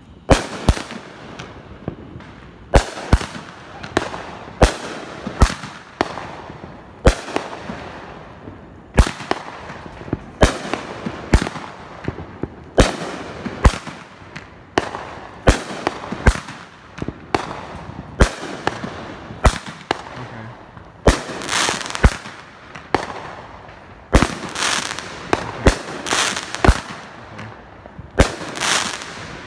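Aerial firework cake firing: a steady run of sharp bangs, one or two a second, as shells burst overhead. The bursts come thicker and longer near the end.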